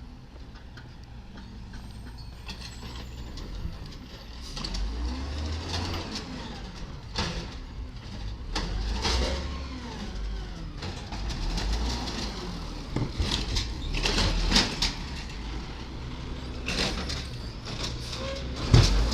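Garbage truck engine revving up and down repeatedly while the truck works, with clanks and knocks from its equipment; the sharpest bang comes near the end.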